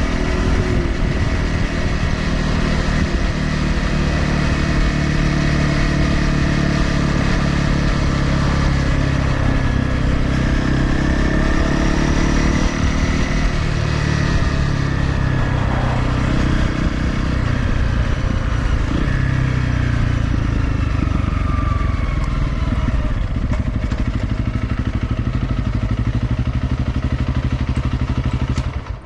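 Honda CRF250L's single-cylinder four-stroke engine running through an aftermarket exhaust with an SP Tadao Power Box header pipe; the note rises and falls as the throttle changes.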